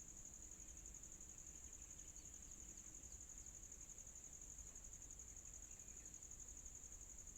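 Faint, steady high-pitched trill of insects, most likely crickets, pulsing rapidly without a break.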